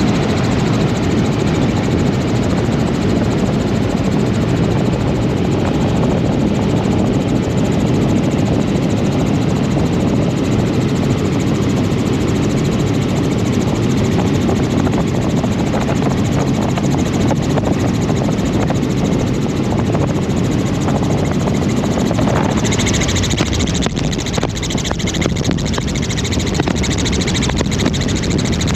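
Helicopter in flight, heard from on board: its rotor and engine make a loud steady drone. A brighter hiss joins about three-quarters of the way through.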